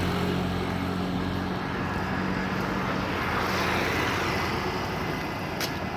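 Road traffic: an engine's steady hum dies away at the start, then a vehicle passes with a rush of tyre and engine noise that swells about three to four seconds in.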